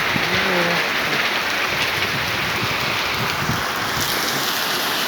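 Heavy rain falling in a steady downpour, an even hiss of rain on surfaces.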